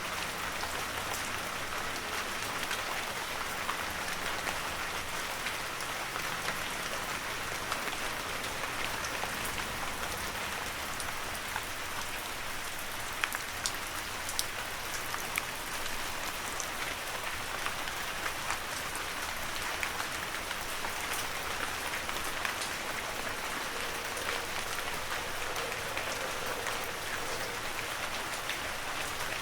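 Steady heavy rain, a dense hiss of falling water with many individual drops tapping throughout and a few louder drop hits about halfway through.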